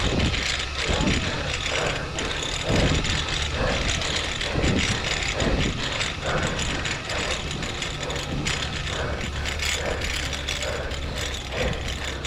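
Bicycle rear freewheel hub ticking rapidly as the rider coasts, under a steady rush of air and road noise.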